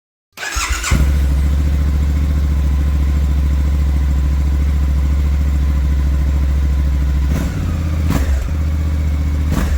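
Suzuki V-Strom 800DE's 776 cc parallel-twin engine running steadily. It starts just after a sudden cut in, and its note changes briefly a few times in the second half.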